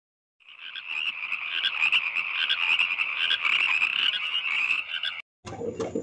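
Frog croaking in a fast, rattling run of calls, starting about half a second in and stopping abruptly about five seconds in.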